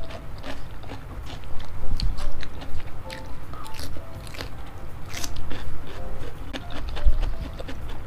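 Close-miked eating: chewing and biting on spicy boneless chicken feet and cucumber, with many short, sharp crunching clicks.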